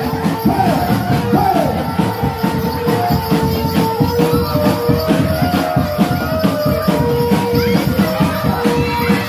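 Live barongan accompaniment music: fast, steady drumming under a held melody line that steps between a few sustained notes, with a shaker-like jingle on top.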